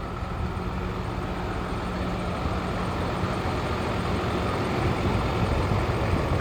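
Hino J08E diesel engine of a box truck idling steadily with a low, even hum.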